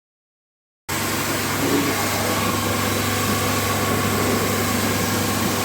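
Single-phase electric pressure washer with a triplex plunger pump running steadily: a constant motor hum under a hiss, starting abruptly about a second in.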